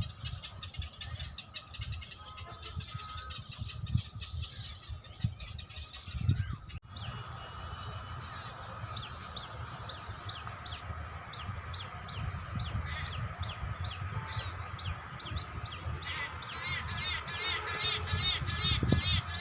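Wild birds calling: a steady series of short high chirps, about two to three a second, that thickens into a dense, rapid run of notes near the end, over a low rumble.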